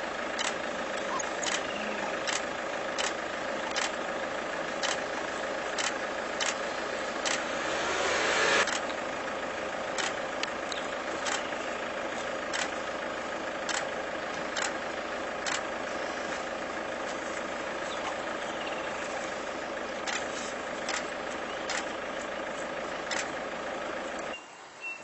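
A vehicle engine idling steadily, with sharp ticks about once a second. A louder rush of noise swells about eight seconds in and ends abruptly. The engine sound cuts off shortly before the end.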